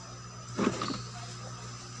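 A short clack of a hand tool working on a circuit board about half a second in, over a steady low electrical hum.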